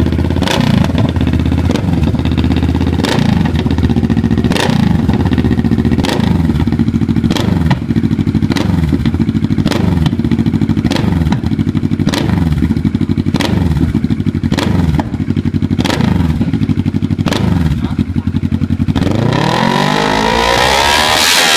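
Kawasaki ER-6n parallel-twin engine running through a CBT Racing aftermarket exhaust, blipped by the throttle over and over, each short rev falling straight back, less than a second apart. Near the end it is revved long and high before dropping.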